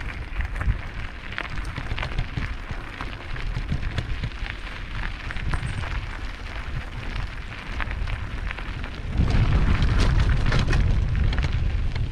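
Mountain bike riding over a rough trail of loose rocks: tyres crunching and the bike rattling with many sharp clicks, over a low rumble of wind on the microphone that gets louder about nine seconds in.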